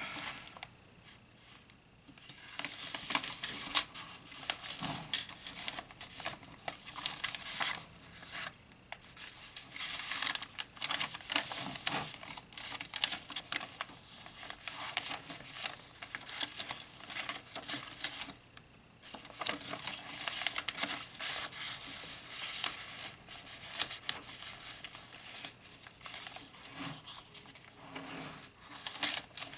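Paper rustling and crinkling as the pages of a handmade junk journal are turned and handled, with brief quiet moments between page turns.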